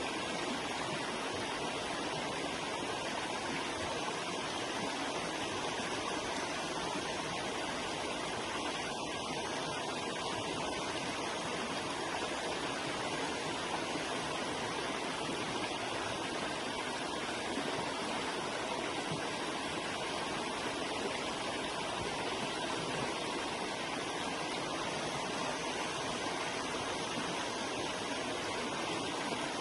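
Forest river or stream flowing over rocks, a steady, even rush of water.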